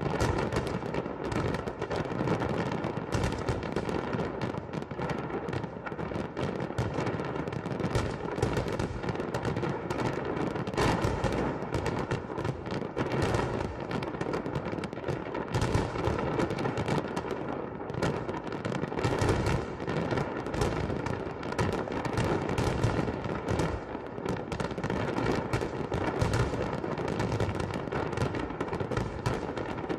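Fireworks salute bursting without a break: rapid, overlapping bangs and cracks, many each second.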